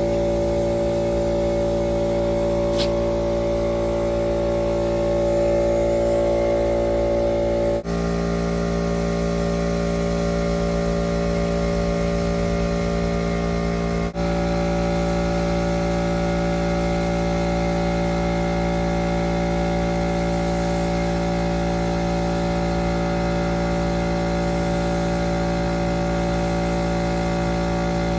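Air compressor running steadily to power a paint spray gun, a loud constant hum. The hum dips briefly twice, about 8 and 14 seconds in, and its pitch shifts each time.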